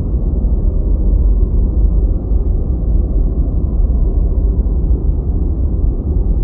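Steady deep white noise, an even hiss with most of its weight in the bass and no treble, with no change.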